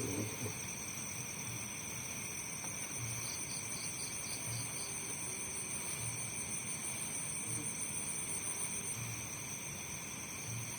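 Night chorus of crickets and other insects, a steady layered high-pitched trilling, with a brief run of faster high chirps a few seconds in. A low short pulse repeats about once a second underneath.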